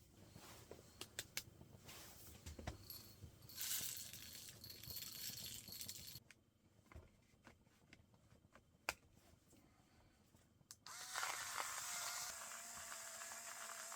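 Small clicks and rattles of coffee-making gear and beans being handled, then a steady hiss. The hiss returns near the end with a faint steady hum.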